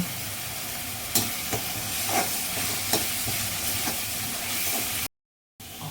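Masala paste sizzling as it fries in oil in a pan, with a spatula stirring and knocking against the pan a few times. The sound cuts out for a moment near the end.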